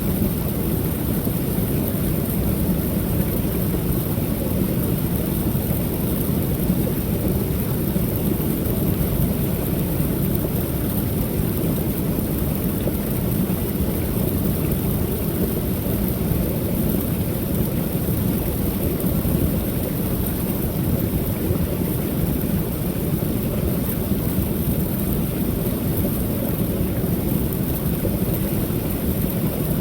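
Waterfall on a creek pouring steadily: an unbroken, low rushing of water that does not change.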